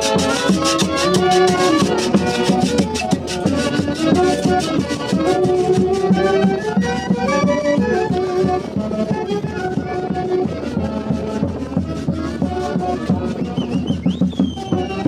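Live Andean folk orchestra led by saxophones playing a lively melody in unison over a steady beat. A brief high whistling glide is heard near the end.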